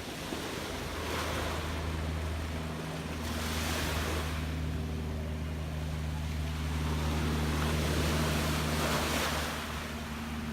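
Gentle sea waves washing in and out, swelling about three times, with a steady low hum underneath.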